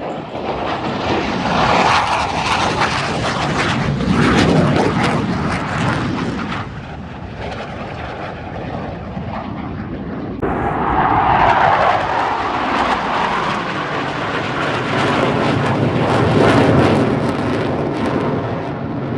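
Airplane engine noise as an aircraft flies past, loud and then dropping in pitch as it goes by. It happens twice, with a sudden break about halfway through.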